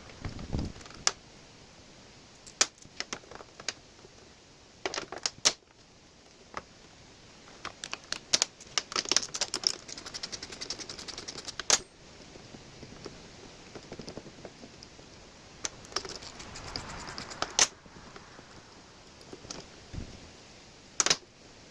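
Hand tools working on metal fittings: scattered clicks and clinks, with a run of rapid ratchet clicking in the middle and a few sharper knocks.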